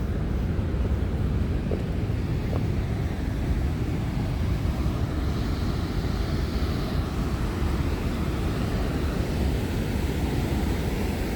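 Ohiopyle Falls rushing steadily: an even, unbroken water noise, strongest in the low range.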